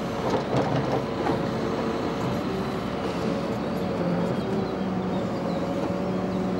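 Timber lorry's engine running steadily to power its log crane as it lifts logs off the back, with a few knocks in the first second or so.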